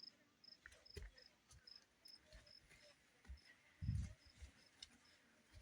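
A cricket chirping faintly and steadily, about two short chirps a second, with a few low thumps, the loudest about four seconds in.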